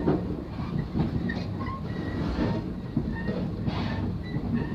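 A train running along the track: a steady low rumble with a few sharp knocks from the wheels over the rails.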